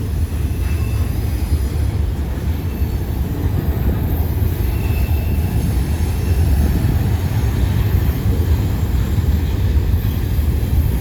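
Freight train cars rolling past with a steady low rumble of wheels on rail. A faint, brief high-pitched squeal comes about halfway through.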